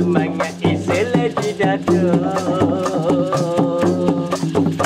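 Dikir barat music: a voice holding a long, wavering sung note over steady hand percussion with a rattling, maraca-like shaker.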